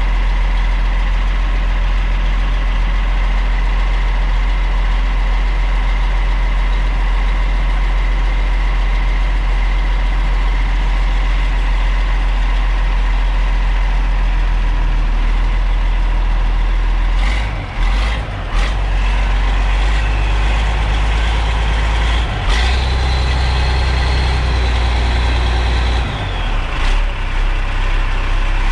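Ford grain truck's turbocharged diesel engine idling steadily after a cold start. A few sharp knocks come past the middle, then the engine picks up briefly with a high whistle before settling back to idle.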